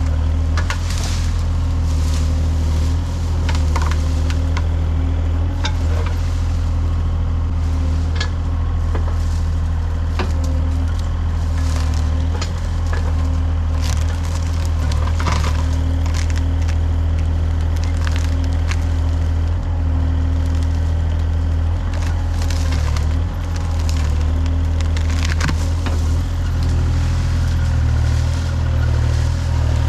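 A machine's engine running steadily at a low hum while small trees and brush crack, snap and splinter again and again, as in land clearing.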